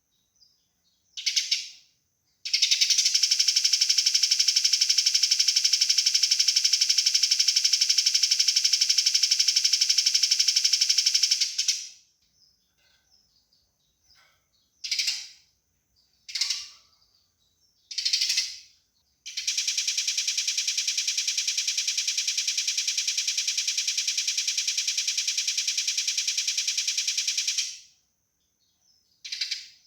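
Eurasian tree sparrow fighting calls: a few short harsh chirps and two long, very fast, even rattling trills of about nine and eight seconds.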